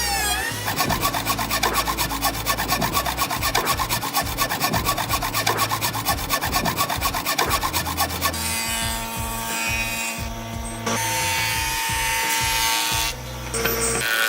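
Wood being sawn in fast, even strokes, changing about eight seconds in to a steadier sound with several held tones.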